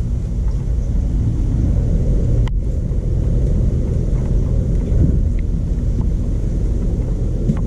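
Stump grinder's 13 HP Honda engine running steadily under load, a loud, deep rumble.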